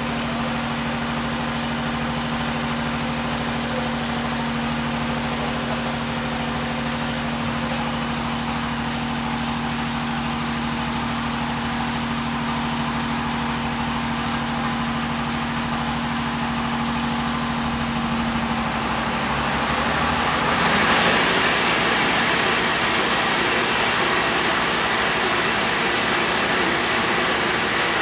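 A motor running with a steady hum. About 19 seconds in the hum fades and a louder, even rushing noise takes over.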